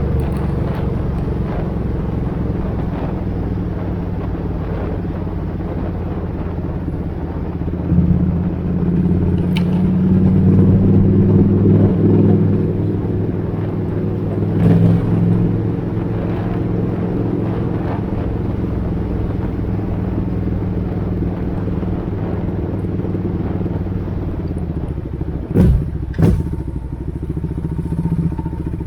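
Suzuki Intruder 800 V-twin engine running through the exhaust being tried on it, idling steadily, then revved up for a few seconds about eight seconds in and blipped once more soon after. Two sharp short cracks come near the end.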